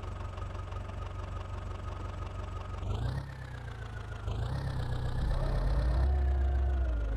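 Massey Ferguson 9500 tractor's diesel engine running steadily at idle, then picking up speed and getting louder about three seconds in, with its pitch falling away again near the end.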